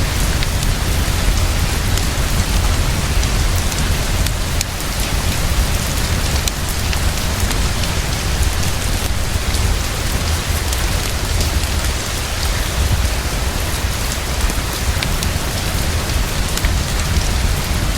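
Heavy, fast, steady rainfall with a low rumble underneath and scattered sharp ticks.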